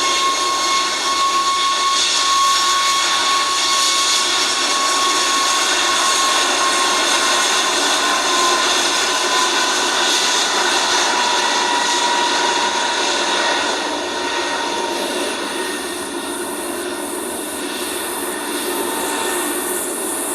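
Jet airliner's engines, a loud rushing noise with a whine that slowly falls in pitch as the aircraft passes, easing off after about fourteen seconds.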